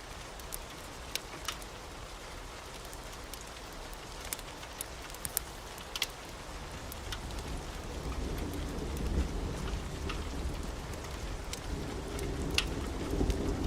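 Steady rain with scattered sharp crackles, and a low rumble of thunder building up from about halfway through and growing louder near the end.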